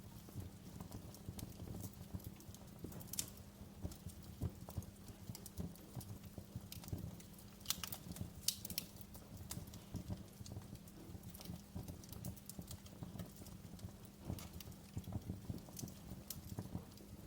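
Wood fire crackling in a fireplace: a steady low rumble of burning with irregular sharp pops and snaps, a few louder pops about three seconds in and about eight seconds in.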